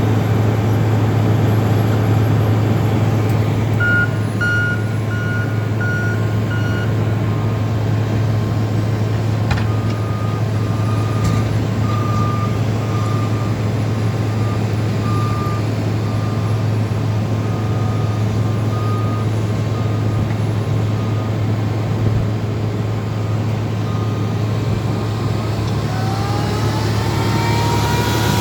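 Diesel engines of snow-plowing skid steers and loaders running steadily under load, with backup alarms beeping: one alarm at about 4 to 7 s, then a lower-pitched one beeping on and off through most of the rest. Near the end a tone rises in pitch.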